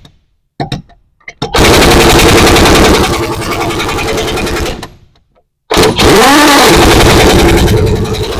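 Earthquake 1-inch impact wrench hammering in loud bursts. After a few clicks it runs from about a second and a half in to about five seconds, stops briefly, then runs again, its pitch dipping and rising soon after restarting.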